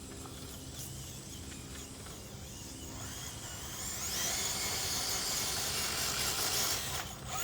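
Small electric RC crawler's motor and gearbox whining as it climbs, a high drill-like whine that grows louder about halfway through.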